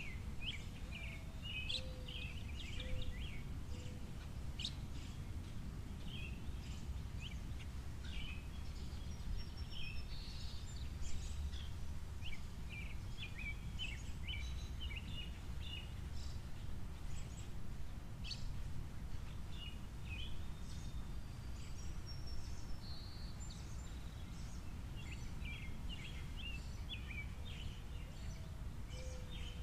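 Small birds at a seed feeder chirping and twittering in quick clusters of short high notes, over a steady low background rumble.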